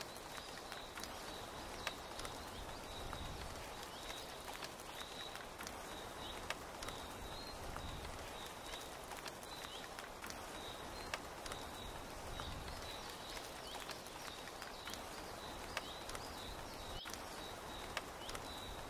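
Steady rain pattering on a tent's canvas, an even hiss with scattered sharp ticks of single drops. A continuous run of short, high chirping animal calls sounds over it.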